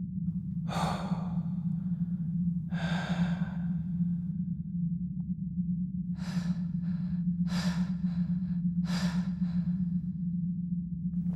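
A person breathing heavily: two long breaths, then a pause, then three quicker in-and-out breaths, over a steady low hum.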